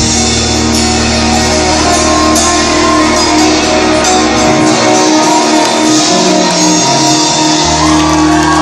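Live rock band playing an instrumental passage, guitar over sustained chords. The low bass drops out for about three seconds in the middle, then comes back.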